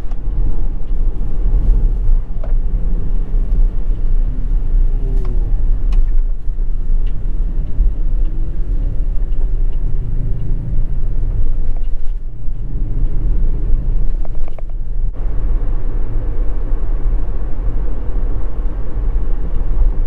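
Steady low rumble of a running vehicle, with a faint engine note that rises and falls a few times.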